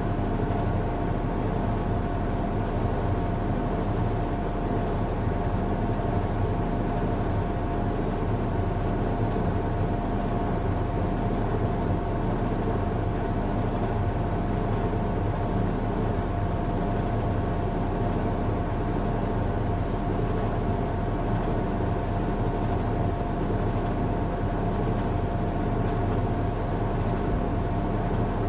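Washing machine running on a strong cycle: a steady motor hum with a constant whine above it, unchanging throughout.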